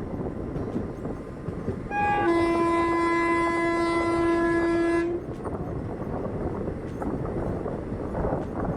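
A train horn sounds once, a single held chord lasting about three seconds, starting about two seconds in. It is preceded by a brief higher note, over a steady rumbling background.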